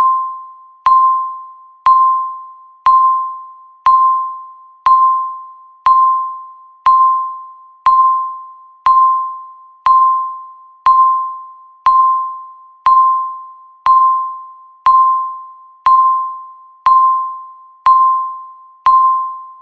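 Countdown timer's tick beep, one per second: a single pure electronic tone struck sharply and fading away within the second, repeating evenly.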